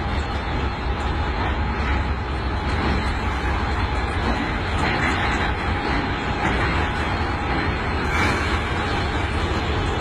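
Locomotive engine running with a steady low rumble.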